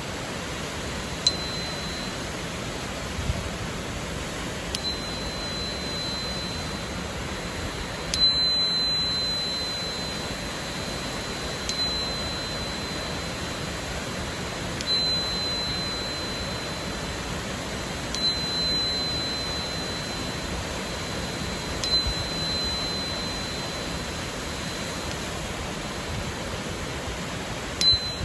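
A 4096 Hz crystal tuner struck about eight times, every three to four seconds: each tap is a sharp click followed by a single high, pure ringing tone that lingers until the next tap. Under it the steady rush of a waterfall.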